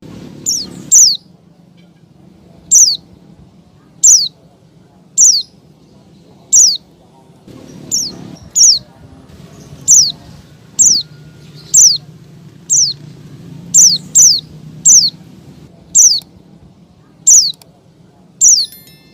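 Female white-eye (pleci) calling for a male: short, high notes that slur sharply downward, repeated about once a second, sometimes as quick doubles. A faint low hum runs underneath.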